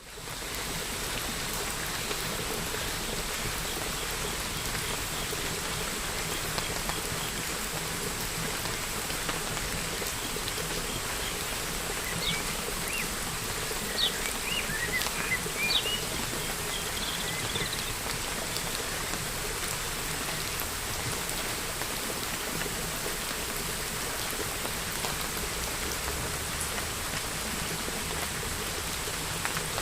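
Steady rain falling, fading up in the first second, with a few short bird chirps about halfway through.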